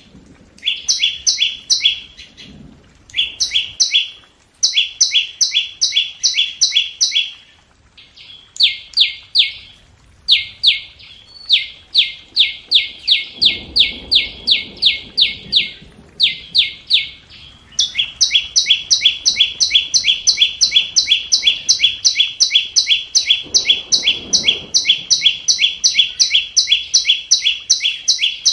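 Scarlet-backed flowerpecker giving sharp, high ticking call notes, three or four a second. They come in short runs at first and then in one unbroken series; this is a lure call used to draw wild birds to a trap.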